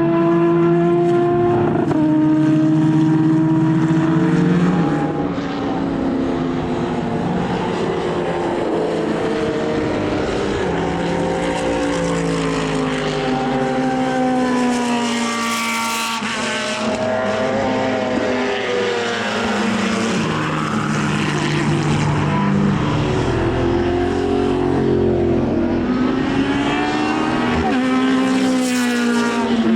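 Racing car engines running on a circuit, several at once, their pitch climbing and dropping as they accelerate and change gear, the tones overlapping and sweeping as cars pass.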